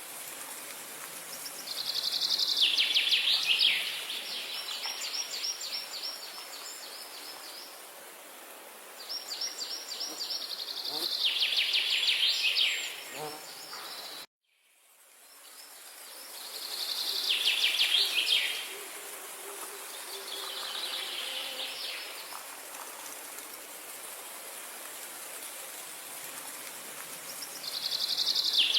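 A songbird singing a short, rapid trilled phrase that falls in pitch, repeated every several seconds over a steady high hiss of background nature ambience. About halfway through, the sound cuts out briefly and then fades back in.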